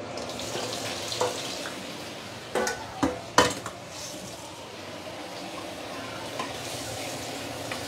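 Prawns in dark soy sauce sizzling steadily in a non-stick wok as a wooden spatula stirs them, with a few sharp knocks about three seconds in.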